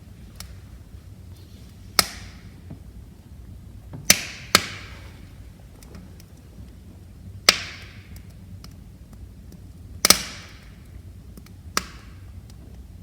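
Wood fire crackling: six sharp pops of burning logs at irregular intervals over a steady low rumble of the flames.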